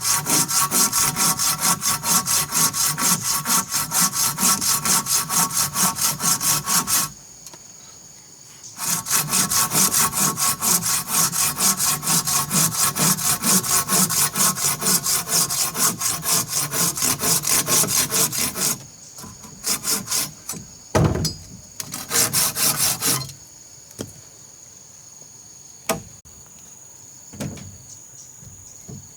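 Hand saw cutting wood in quick, even strokes: a run of about seven seconds, a brief pause, a longer run, then a few short strokes and a knock. After the sawing stops, insects chirr steadily and a couple of light knocks sound.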